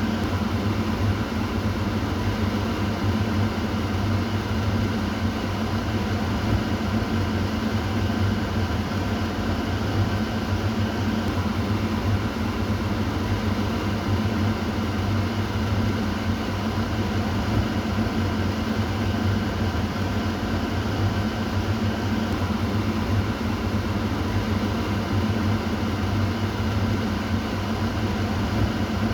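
Kitchen exhaust fan running steadily: an even rushing of air over a low motor hum, with no change.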